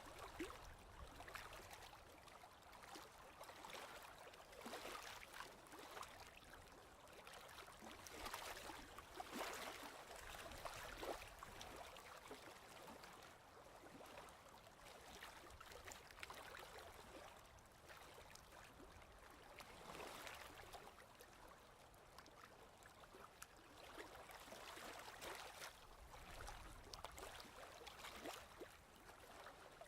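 Faint ocean waves washing in, the noise swelling and fading every few seconds.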